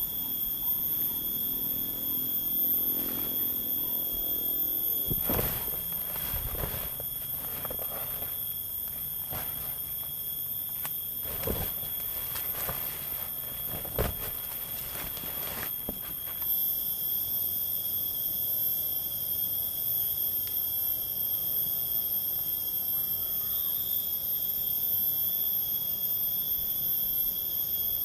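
Forest insects shrilling steadily in several high, unbroken tones. Between about five and sixteen seconds in, a scattered series of knocks and clacks is heard, with one sharp knock near the middle.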